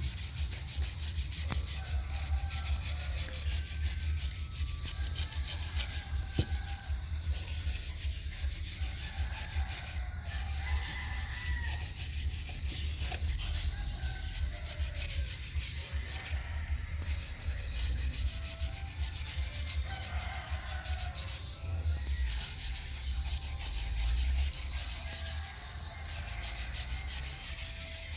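Steady, rapid sanding: an abrasive rubbed back and forth over a part, with a low rumble underneath.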